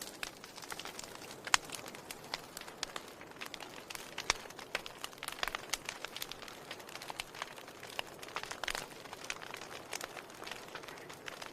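Wood fire in a fireplace crackling: a steady soft hiss of flame with frequent irregular sharp pops and snaps of burning wood, a few louder ones standing out.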